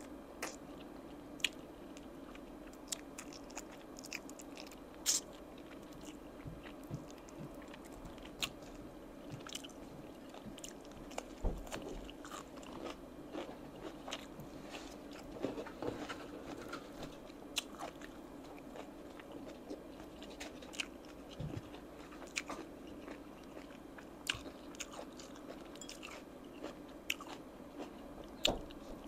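Close-miked eating of oven-roasted chicken wings and a crisp raw leaf vegetable: biting, chewing and crunching, heard as many irregular sharp clicks over a steady low hum.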